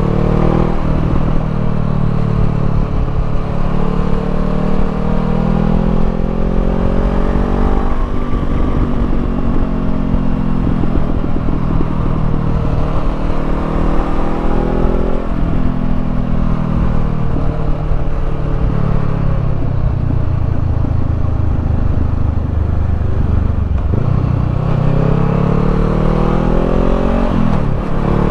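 Honda CBR500R parallel-twin engine through a Termignoni slip-on exhaust, riding under way: the revs climb and then drop sharply several times as it shifts up through the gears, with wind rush underneath.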